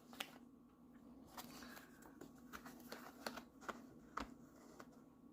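Near silence with a few faint scattered clicks and light rustles of hands handling the coin set's packaging.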